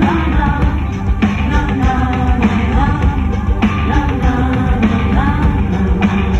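Live rock band playing loudly, with a voice singing over a steady beat.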